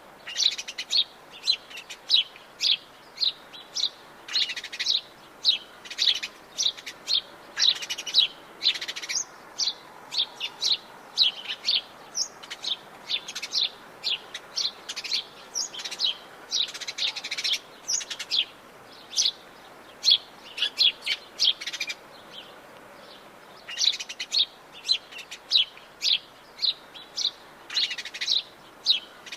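Atlantic Forest birds chirping: a rapid, dense run of short, high notes, with a brief lull about two-thirds of the way through.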